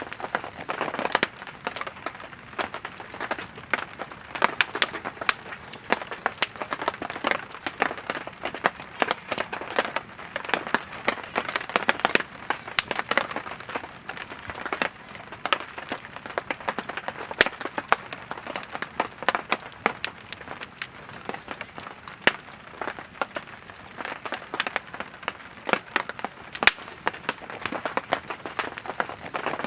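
Wood campfire burning, with irregular sharp crackles and pops from the firewood over a soft hiss of the flames.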